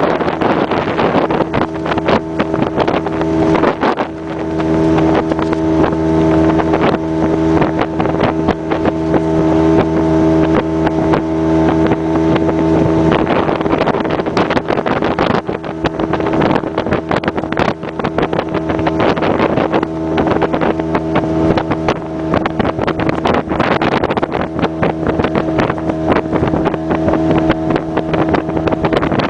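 Small boat's outboard motor running steadily under way, its engine note shifting partway through, with wind buffeting the microphone and water rushing past.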